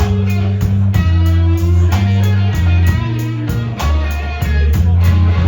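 Live blues band playing a slow blues: electric guitar lick over bass guitar notes and a steady drum beat.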